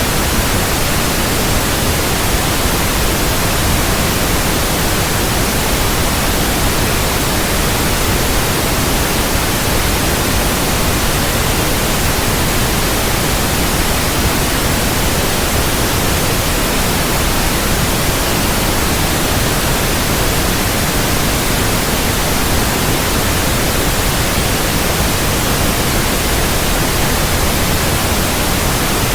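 Steady white noise, a loud even hiss with no change or pattern, played as a sleep aid for babies.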